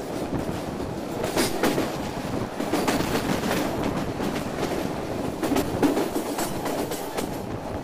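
Passenger train running along the track, heard at an open window: a steady rumble and rush of air with irregular sharp clacks of the wheels over rail joints.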